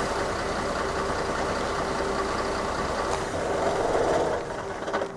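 Train passing over a railway level crossing: a steady rumbling run with a held tone, which drops away near the end.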